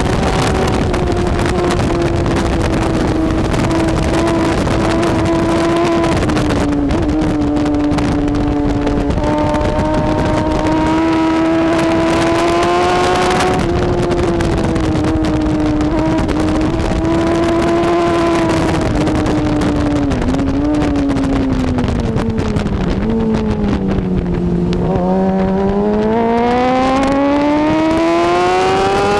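BMW S1000RR superbike's inline-four engine running hard at racing speed. Its pitch holds high with small steps for most of the time. About two-thirds through it falls in a few stepped drops as the bike slows, then climbs steadily under acceleration near the end.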